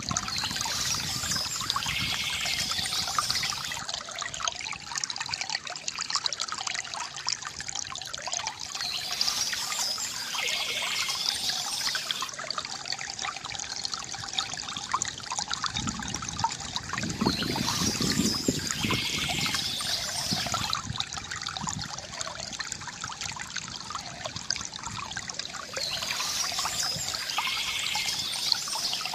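Small stream trickling and splashing steadily, with birdsong rising above the water in spells about every eight or nine seconds.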